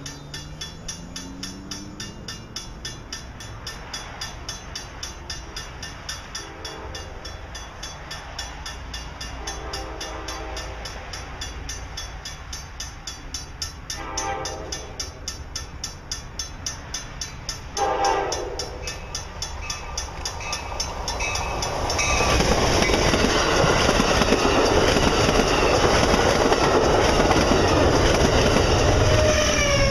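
A train horn sounds four blasts, long, long, short, long: the standard grade-crossing signal. From about two-thirds of the way in, a passenger train passes close at speed, and the loud rush of its wheels on the rail takes over.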